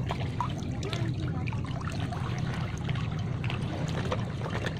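Shallow floodwater trickling and sloshing, over a steady low hum.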